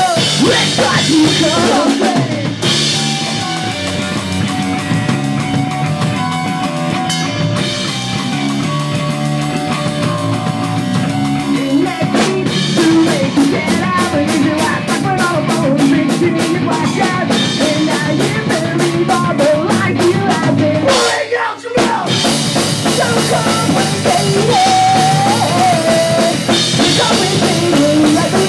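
A live pop punk band playing full out: pounding drum kit, distorted electric guitars and bass, with a sung lead vocal. Just past two-thirds of the way through the band stops for a split second, then crashes back in.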